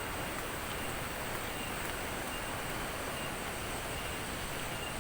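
Steady rushing roar of a waterfall, an even wash of noise without change, with faint short high-pitched chirps recurring every second or so.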